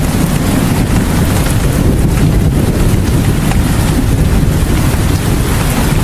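Steady rain falling, an unbroken dense hiss weighted toward a low rumble, with no letup.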